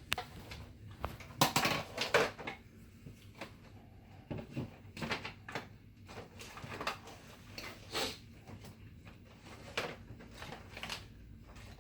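Scattered clicks, knocks and rustling from power cords and plugs being handled and pulled behind a desk, a dozen or so irregular sharp handling noises.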